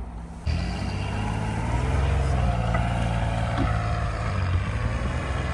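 Toyota-engined Pinzgauer 6x6 truck running under way. A steady low engine drone comes in abruptly about half a second in, with a fainter wavering whine above it.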